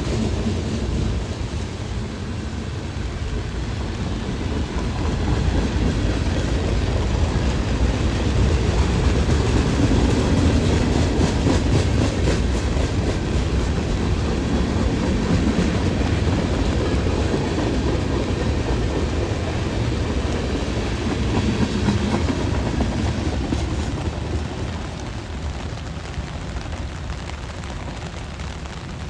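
Freight train cars rolling past, a steady low rumble with wheels clacking over the rail joints, fading away near the end as the train goes by.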